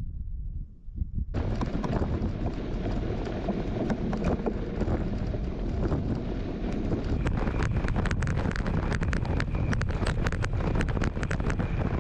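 Gravel bike being ridden over rough gravel: tyres crunching, wind on the microphone and many sharp rattling clicks from the bike, starting suddenly about a second in.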